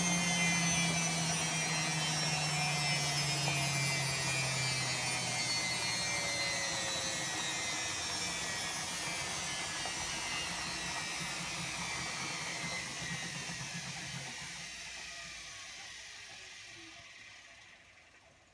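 Bosch WAE24162GB washing machine's drum and motor slowing down after a spin: a loud whine and rumble whose pitch falls steadily and fades away as the drum coasts towards a stop near the end.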